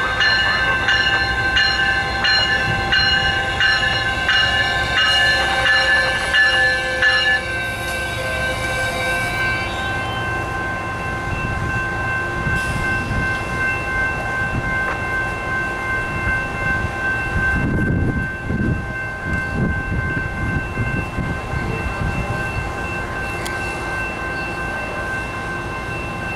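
Metrolink commuter train pulling into the station: a bell rings in quick repeated strikes for the first seven seconds or so over the low rumble of the diesel locomotive and cars. Steady high tones hang on throughout, and about eighteen seconds in there is a louder burst of low rumble as the train comes to a stop.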